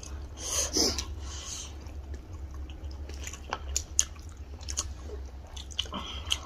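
Close-miked chewing of mouthfuls of rice and curry eaten by hand, with scattered short mouth clicks and a louder burst about half a second to a second in. A steady low hum runs underneath.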